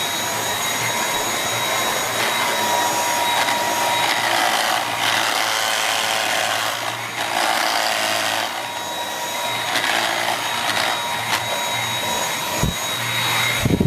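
Dyson V8 cordless vacuum running steadily with its mini motorised brush head on stair carpet: a steady motor whine under an uneven rattle from the head. The brush roll clatters in its housing when the head is pushed onto the stair edges and more pressure falls on one end of the brush bar; the owner finds it does not affect performance.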